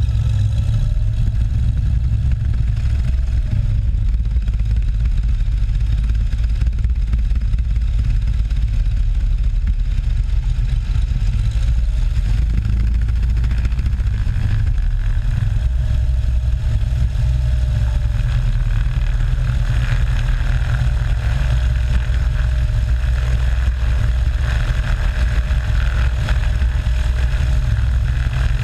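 Cessna 182 piston engine and propeller running steadily in flight, a constant low drone.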